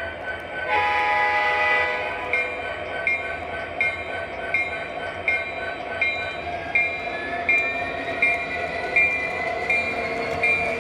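Train horn blown once, briefly, about a second in, followed by a bell ringing at a steady, even rhythm.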